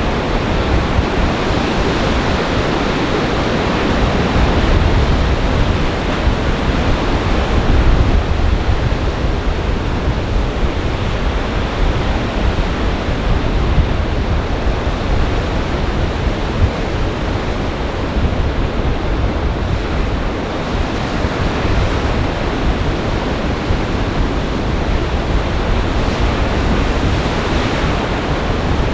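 Storm waves on Lake Michigan breaking continuously in gale-force wind, a loud steady wash of surf with wind buffeting the microphone in a low rumble that swells and eases.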